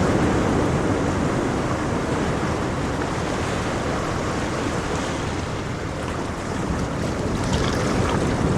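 Ocean surf: waves washing in as a continuous rush that eases about two-thirds of the way through and swells again near the end.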